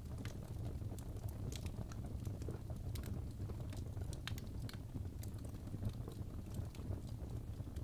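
Fireplace crackling: irregular sharp pops and snaps over a steady low rumble of the fire.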